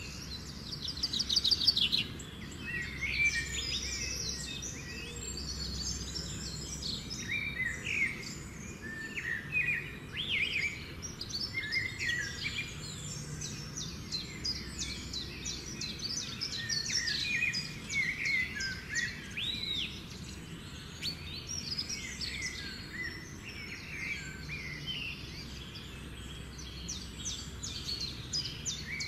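Birds chirping and singing, many short overlapping calls throughout.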